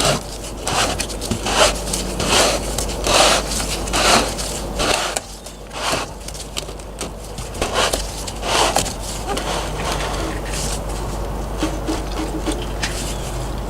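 Scraping and rubbing handling noise as the plastic and metal parts of a Davco Fuel Pro 382 fuel filter housing are fitted back together by hand. It comes in repeated strokes, about one a second, which settle into a steadier, quieter rustle near the end.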